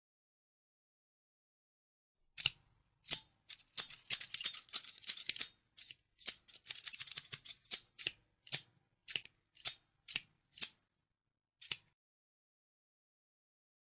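Scissors snipping: a few single snips starting about two and a half seconds in, two quick runs of rapid cuts, then single snips about every half second that stop a couple of seconds before the end.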